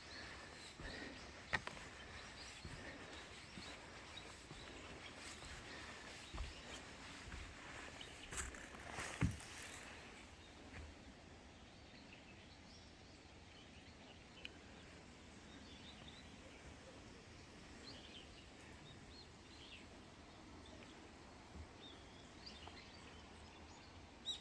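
Faint outdoor ambience with scattered clicks and knocks in the first half, then a few faint, short bird chirps over a steady background hiss.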